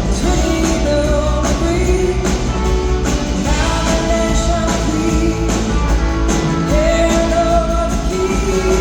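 Live rock band playing a song, with guitar, drums and held sung or slide-guitar melody notes that bend in pitch, at a steady loud level.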